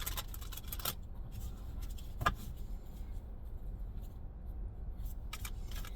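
Tarot cards being shuffled: a quick run of papery card clicks in the first second, then scattered single flicks and taps as the deck is handled, over a steady low room hum.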